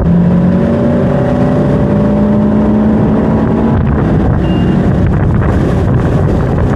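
Tow boat's engine running at speed, pulling a slalom water-skier, with wind buffeting the microphone. The engine's tone climbs slightly over the first few seconds and then sinks into the steady rush of noise.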